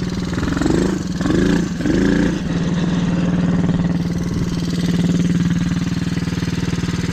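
Small dirt bike engine idling, blipped up three times in quick succession about a second in, then settling back to a steady idle. The drive chain has partly come off, and something sounds like it's dragging.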